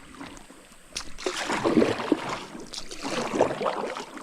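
Water splashing and rushing around a small paddled boat entering a creek rapid, with irregular paddle strokes and a sharp knock about a second in.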